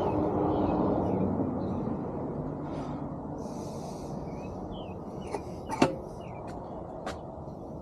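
Outdoor background noise, a steady low rumble that fades over the first few seconds, with a few sharp clicks and knocks about two-thirds of the way through and faint bird chirps.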